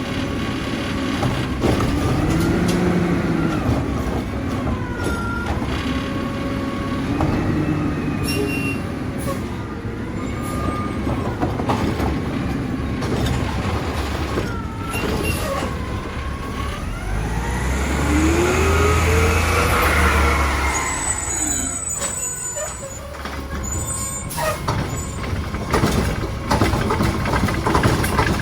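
Mack LR garbage truck's engine revving up and down again and again, with sharp air-brake hisses.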